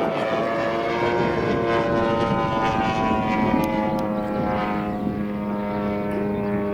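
Radio-controlled model airplane's motor and propeller whining steadily in flight, its pitch drifting slowly as it flies about, with a lower tone joining about three seconds in.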